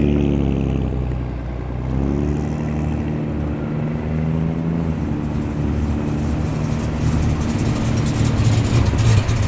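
A classic car's engine running steadily at low revs as it rolls slowly past, getting a little louder near the end.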